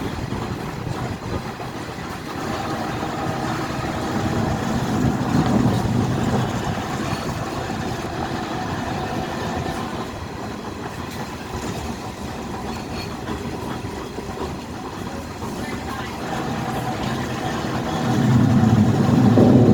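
Streetcar running along its rails: a steady rumble with a faint whine, swelling louder about five seconds in and again near the end.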